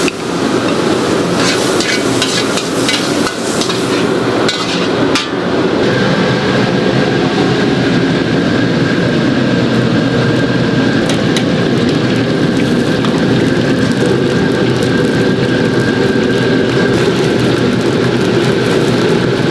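Cleaver chopping on a cutting board, a scattering of sharp knocks in the first five seconds. After that comes a steady low rumbling noise with a faint high whine.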